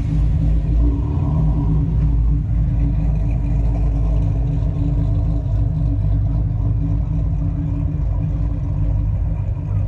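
A car engine running steadily, a deep, even sound with no revving.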